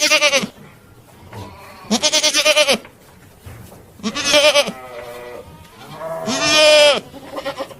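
Goat bleating repeatedly: four loud, quavering bleats about two seconds apart, and a fainter short one near the end.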